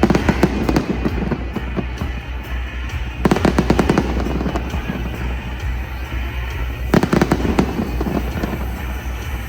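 Fireworks bursting and crackling in three volleys, at the start, about three seconds in and about seven seconds in, over music with a steady deep bass.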